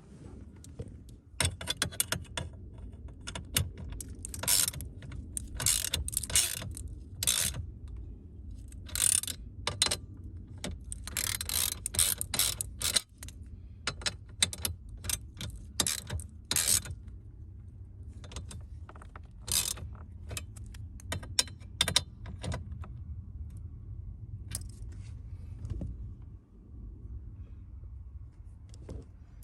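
Hand-tool and parts clicking, with ratchet-like clatter in irregular short bursts, over a low steady hum.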